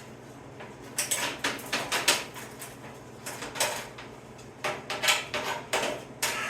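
Hammer blows on a sheet-steel patch panel being shaped by hand, in irregular runs of quick, sharp strikes with short pauses between them.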